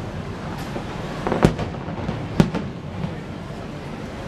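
Fireworks bursting over a steady rumble, with two sharp bangs about a second apart near the middle and a few smaller pops around them.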